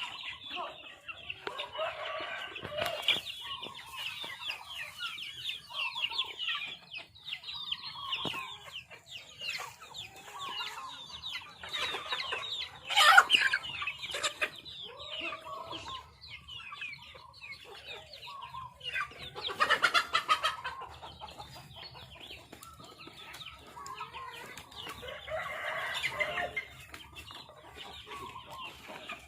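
Farmyard chickens clucking and calling continuously, with several louder calls standing out, two of them loudest around the middle.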